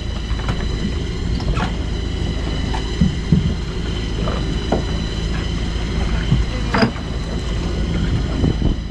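Fishing boat's engine running steadily with a low hum and a faint high whine, along with wind on the microphone and a few scattered knocks.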